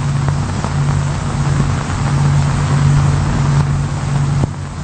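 Engine of a self-propelled steelwork bogie running steadily: an even, low drone that holds its pitch, over a background hiss.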